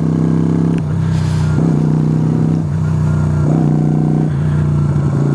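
Yamaha YBR125's single-cylinder four-stroke engine running while being ridden. The pitch holds steady and the tone changes in steps every second or so.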